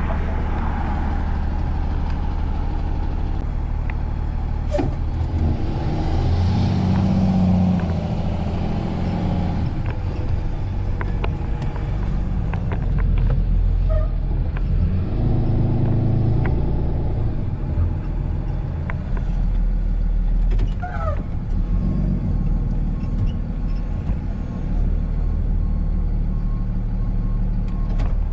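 Tow truck's engine running with a steady low drone that swells twice, with a few scattered clicks.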